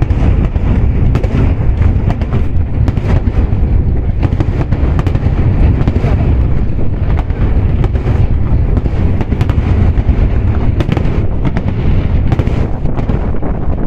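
Fireworks going off in quick succession: a constant low rumble of booms with many sharp cracks mixed in.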